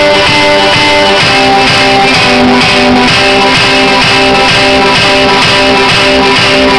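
Loud music with a repeating plucked guitar figure, played over a truck's custom sound system of four subwoofers and ten horn speakers.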